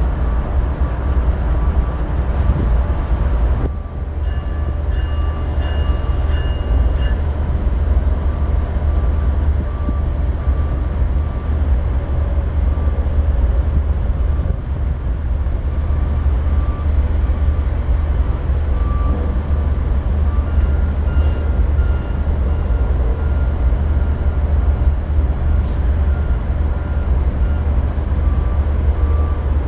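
Diesel train rumbling steadily, a deep, even low drone with faint high ringing notes coming and going.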